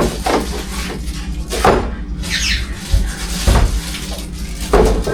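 Kitchen cleaning handling sounds: a series of separate knocks and clunks, like containers set down and cupboard or fridge doors moved, with a short squeak about halfway through, over a steady low hum.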